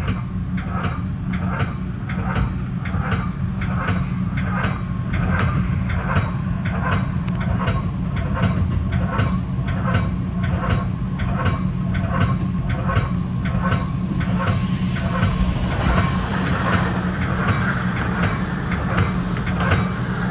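Metra commuter train running, heard from the front of the leading car: a steady low rumble with an even clicking about twice a second. From about two-thirds of the way in, a high hiss joins as a second train comes by on the adjacent track.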